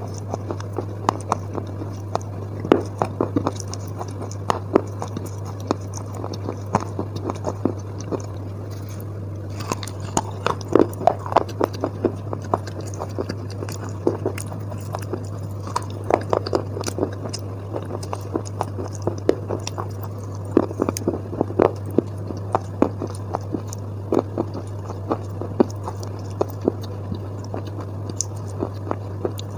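A person chewing wet chalk paste close to the microphone: soft crunches and squishy mouth clicks coming in irregular clusters, over a steady low hum.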